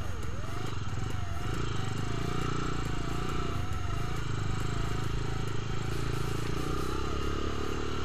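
Kawasaki KLX150 dirt bike's single-cylinder four-stroke engine running steadily while riding, with wind rushing over the microphone. A thin tone wavers up and down about twice a second above the engine.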